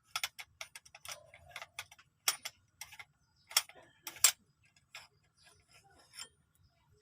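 Irregular small clicks and taps of a hand tool working at the valve of a leaking Armscor CO2 airgun, a few of them sharper and louder in the middle.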